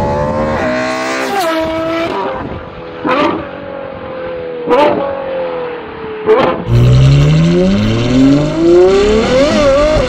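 Ferrari 812 GTS's naturally aspirated 6.5-litre V12 through a Novitec sport exhaust: it revs up and shifts up, then runs off the throttle with three sharp gunshot-like exhaust bangs, and from about two-thirds in pulls hard at full throttle, rising steeply in pitch with a quick upshift near the end.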